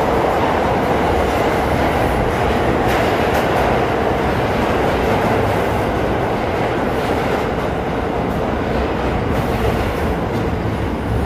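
New York City subway train running through the station: a loud, steady rumble of wheels on rails with faint clicks.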